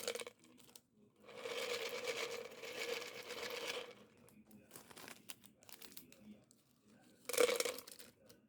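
Plastic snack packet crinkling and rustling as it is handled: a long crackling stretch of about three seconds, then a shorter burst near the end.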